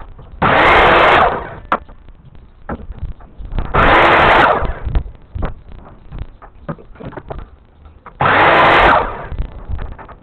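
Power tool running in three bursts of about a second each, with short knocks and clicks of handling between them.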